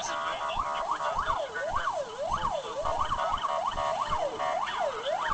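Emergency vehicle siren on a fast yelp, its pitch sweeping up and down about twice a second, starting about half a second in, over some low rumbling noise.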